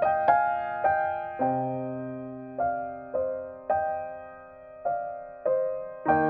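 Solo piano music, slow single notes and chords struck about once or twice a second and left to ring and fade.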